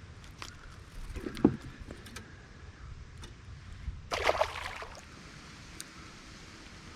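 Sounds of a fishing kayak on the water: a sharp knock about a second and a half in, the loudest sound, then a short rush like splashing water around four seconds in, over a low steady background.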